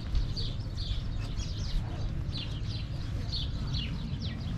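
Small birds chirping over and over in short falling chirps, about two or three a second, over a low steady rumble.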